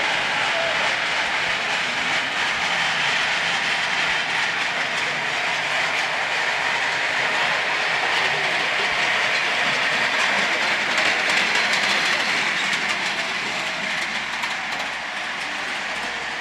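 Steady rolling noise of a small railway train running along its track, easing slightly near the end.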